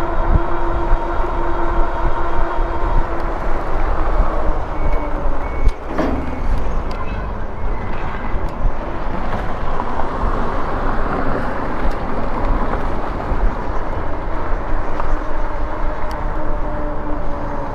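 Riding noise from a moving e-bike: wind rushing over the microphone and tyres rumbling on pavement, with a faint steady whine that fades in and out. A single knock about six seconds in.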